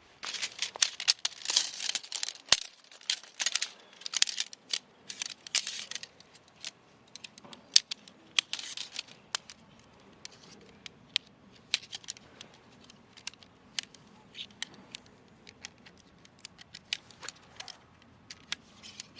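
Handling noises: dense crinkling and rustling for the first few seconds, then scattered sharp clicks and light knocks.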